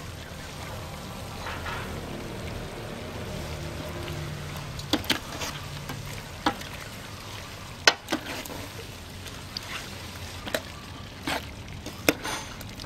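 Pork braising in soy sauce in a pan, sizzling and bubbling steadily, with a utensil knocking sharply against the pan about half a dozen times as it is stirred.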